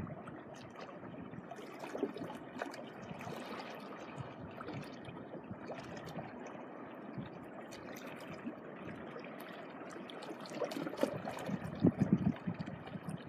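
Small sea waves lapping and trickling at the shoreline, with scattered small splashes and a few louder washes near the end.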